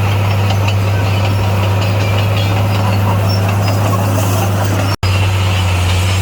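Heavy construction machine's diesel engine running steadily with a deep, even drone, cut off for a split second about five seconds in.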